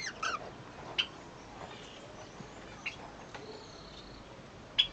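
Cockatiel giving a few short, sharp chirps while playing, the loudest one near the end.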